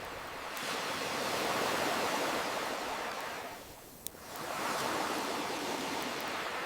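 Ocean waves washing in and drawing back: two swells of surf with a lull between them, and a single sharp campfire pop during the lull about four seconds in.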